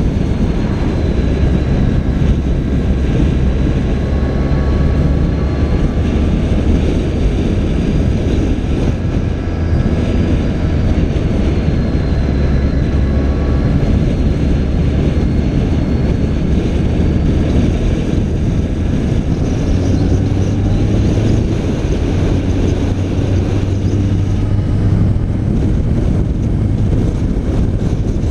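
BMW K1300 R's inline four-cylinder engine running at steady road speed with wind rushing over the microphone; the engine note steps up a little about two-thirds of the way through.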